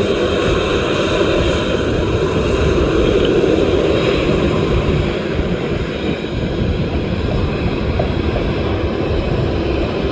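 Boeing 737 jet engines running loud as the airliner moves close by, a steady roar with a crackling low rumble. The roar is loudest about three to four seconds in, then eases a little.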